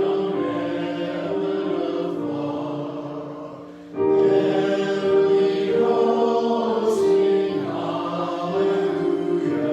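Choir singing a slow hymn in long sustained chords, with a short break about four seconds in before the next phrase begins.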